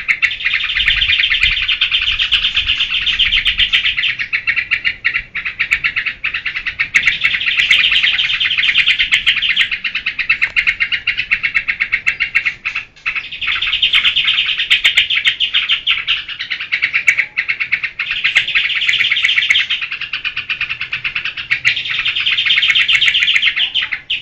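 Yellow-vented bulbul (trucukan) singing in long runs of rapid chattering notes, each run a few seconds long with short breaks between.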